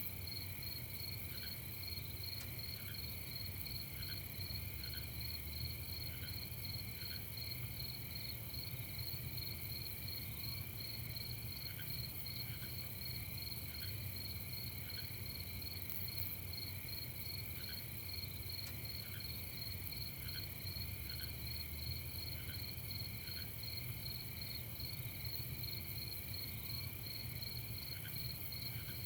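Night chorus of crickets chirping steadily in a fast, even pulse, with short fainter notes every second or two and a low steady rumble underneath.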